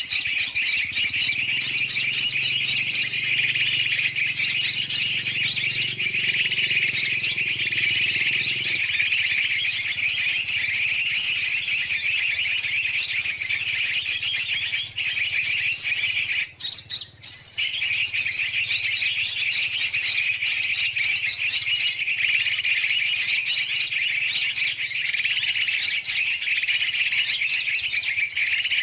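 Bird-lure recording of a dense, noisy chorus of many small birds chirping and chattering rapidly and continuously, with a brief break about seventeen seconds in. A faint low hum runs under it for roughly the first nine seconds.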